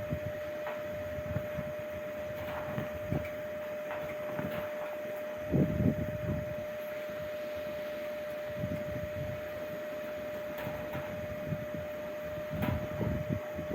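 Strong wind gusting in irregular surges, with low rumbling buffets on the microphone, over a steady high whine.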